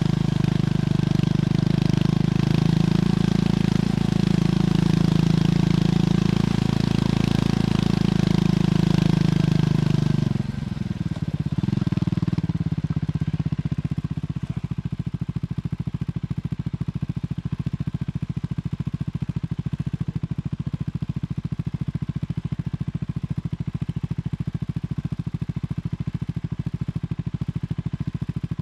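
Triumph Scrambler 400X's single-cylinder engine through its stock exhaust, running steadily under way with wind and road rush. About ten seconds in the pitch drops as the bike slows, and from about halfway it settles into an even idle.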